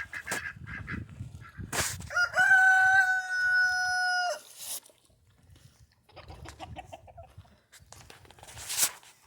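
A rooster crows once, a long held call of about two seconds, with short repeated fowl calls before and after it.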